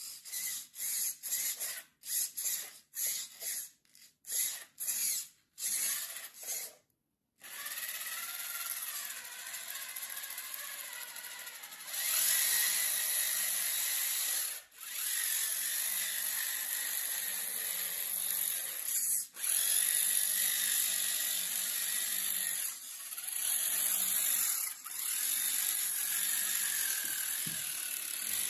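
Small handheld power tool, a drill or rotary tool working PVC: about a dozen short bursts over the first seven seconds, then running continuously with brief dips.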